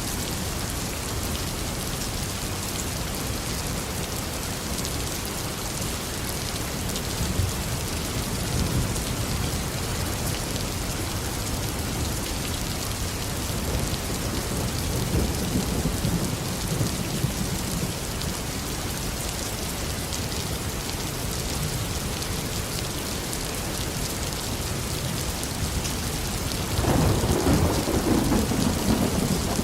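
Tropical rain falling steadily, with thunder rumbling low a few times and a louder rumble of thunder near the end.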